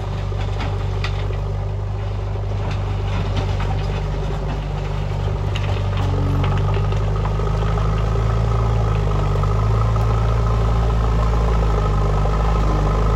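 JCB 3DX backhoe loader's diesel engine running steadily. It grows louder about halfway through and stays at the higher level, with a few light clicks in the first half.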